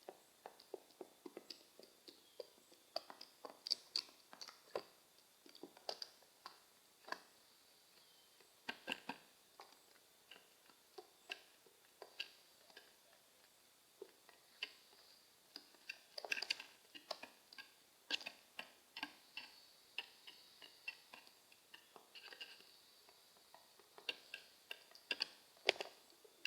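A group of pigeons pecking at seed on a hard surface: irregular sharp ticks and clicks, sometimes several a second, coming in clusters.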